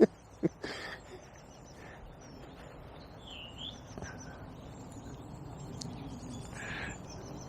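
Small birds chirping and calling over a steady low outdoor background, with a louder swooping call about three seconds in. A couple of sharp clicks come near the start.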